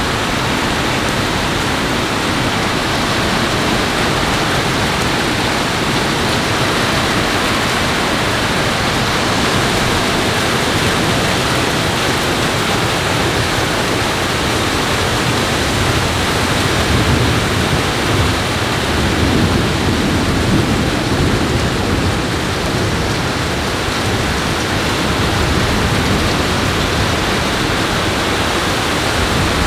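Steady rushing noise of heavy rain and water, with a low rumble swelling briefly a little past the middle.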